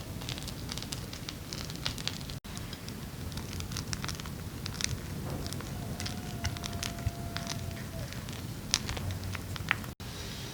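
Wood fire crackling, with irregular sharp pops over a low steady rush.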